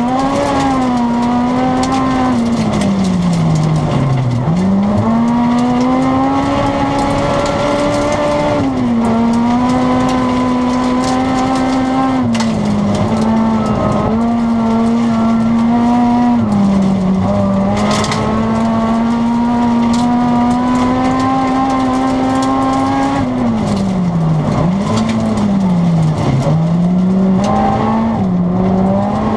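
Honda Civic Type R rally car's engine heard from inside the cabin, held at high revs, with short drops in pitch at gear changes and deeper falls and climbs as it slows for corners and pulls away again. A steady hiss of tyre and road noise runs underneath.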